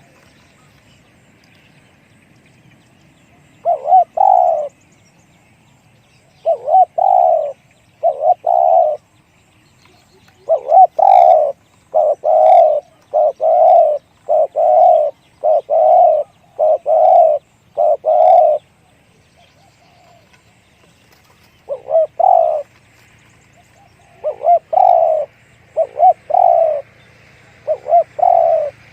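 Spotted dove cooing: short coo phrases repeated one after another in runs, with a pause of a couple of seconds in the middle.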